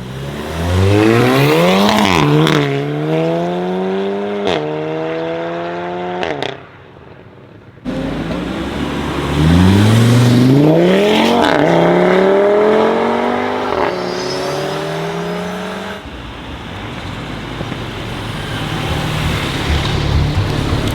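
Performance car engines accelerating hard away, twice: each time the engine note climbs steeply, with two upshifts that drop the pitch. Near the end comes a lower, steadier engine burble from another car.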